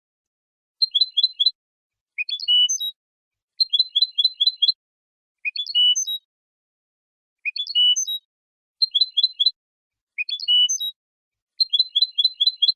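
European goldfinch (chardonneret) singing: short phrases alternate between a fast run of about five bright notes and a phrase that sweeps upward and ends on a held note, each under a second long and separated by silence.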